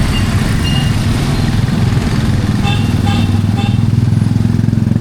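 A motor vehicle engine running close by, its low throb growing stronger a little past halfway, over a steady hiss of heavy rain. Three short beeps sound in the middle.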